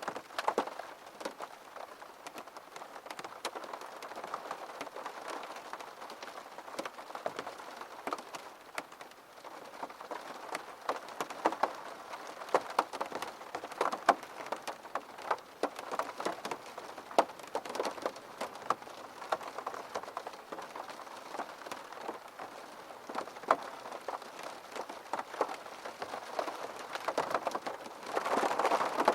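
Steady rain falling on a surface, with many distinct drops striking close by as sharp patters over the even wash, swelling a little louder near the end.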